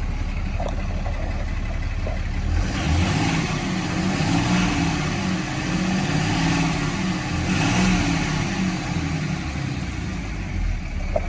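The 6.7-litre Cummins turbo-diesel of a 2008 Ram 4500 is running at a steady low rumble. About three seconds in, its note rises and wavers higher for several seconds, then settles back toward idle near the end.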